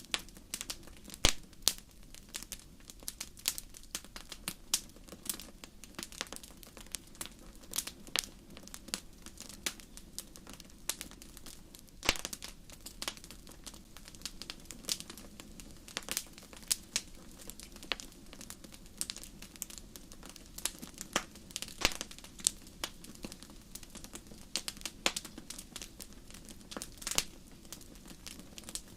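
Wood campfire burning, with irregular sharp crackles and pops from the burning logs over a low, steady rumble of flame.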